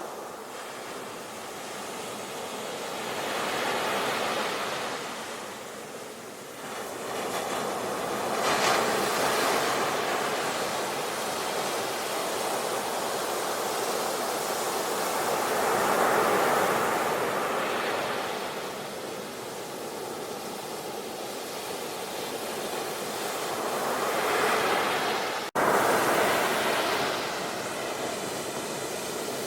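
Sea waves breaking and washing up the shore, the surf swelling and ebbing every several seconds. The sound drops out for an instant about 25 seconds in, then cuts straight back in.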